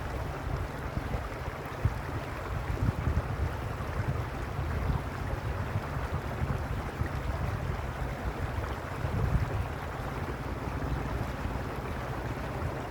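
Stream water flowing steadily, with gusty wind rumbling on the microphone.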